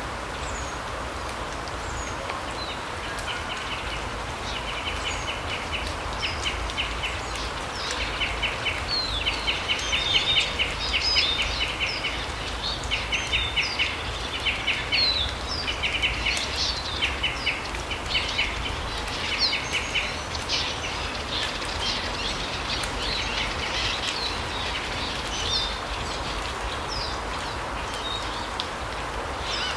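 Small songbirds calling in a forest: repeated rapid trills and short high chirps, with the trills thick through the first two-thirds and thinning out later, over a steady background hiss.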